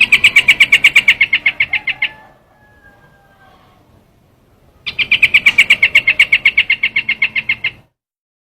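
Recorded lure call of the bird known in Vietnamese as trao trảo: a fast, even series of sharp, high chattering notes at about ten a second. It comes in two bouts, one at the start and another from about five seconds in, with a quiet gap between.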